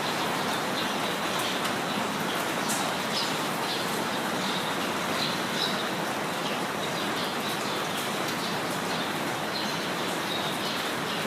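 Steady rain falling, with birds chirping over it in short, high calls every second or so.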